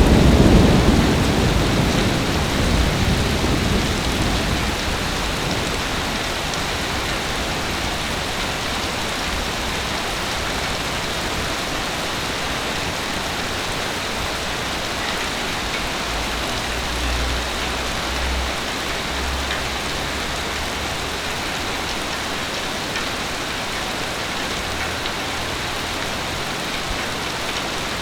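Heavy rain falling steadily. A low rumble of thunder at the start fades away over the first few seconds, and a fainter low rumble comes again about two-thirds of the way through.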